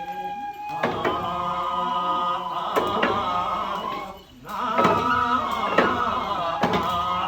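Nenbutsu kenbai festival music: chanted singing in held tones, with sharp percussion strikes about once a second and a brief lull about four seconds in.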